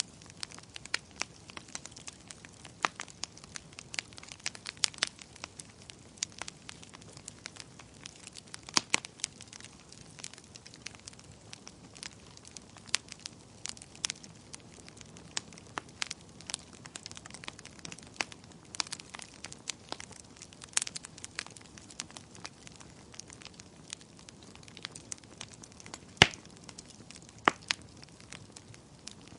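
A fire crackling steadily: a soft low hiss with irregular sharp pops and snaps, one louder pop near the end.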